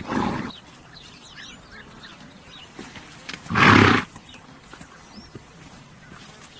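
A horse snorting twice: a short snort at the start and a louder one about three and a half seconds in, with faint bird chirps between.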